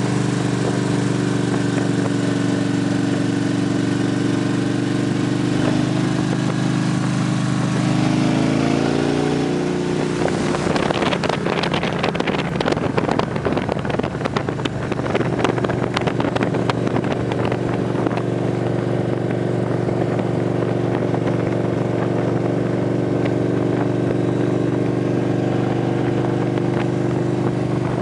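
Victory police motorcycle V-twin engines running steadily, then rising in pitch as they accelerate about eight seconds in. Choppy wind buffeting follows for several seconds before the engines settle back to a steady run.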